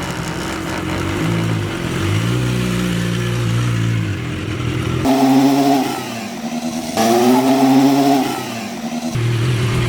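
BMW S1000RR inline-four engine revving, its pitch rising and falling, with two sharper, louder blips of the throttle about five and seven seconds in.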